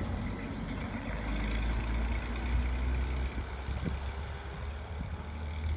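1962 Dodge M37 military truck's flathead six-cylinder engine running steadily at low speed, a low rumble.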